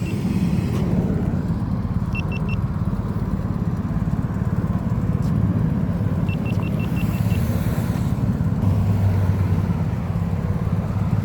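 Road traffic, the low steady rumble of cars on the street. Two runs of short high electronic beeps cut through it, three quick beeps about two seconds in and six about six seconds in.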